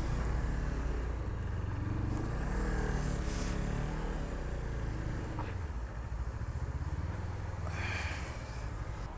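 Motorcycle engine running at low speed while the bike is moved into a parking spot, its pitch rising and falling briefly about two to four seconds in and the sound easing off toward the end.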